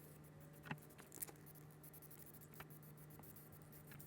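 Near silence: a steady low hum with a few faint, light clicks.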